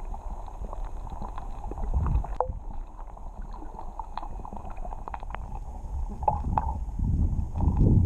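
Water sloshing and gurgling with scattered light clicks, swelling into low surges about two seconds in and again near the end.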